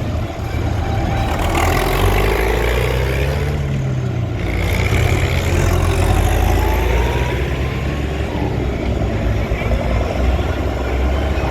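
Tractor engines running loudly and steadily, their pitch rising and falling in the middle as they rev or pass.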